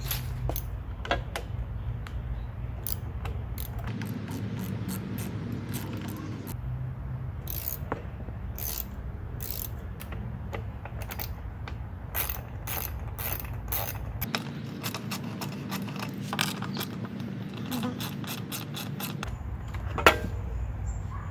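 Hand tools working on a Bolens push mower while its carburetor is taken off: scattered metallic clicks, some in quick runs, and one loud knock near the end.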